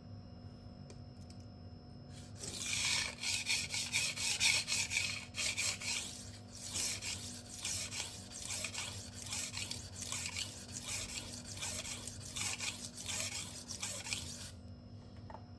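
Steel blade of a Giesser kitchen knife stroked back and forth on a sharpening stone, a rhythmic grinding scrape of about two strokes a second that starts about two seconds in and stops shortly before the end.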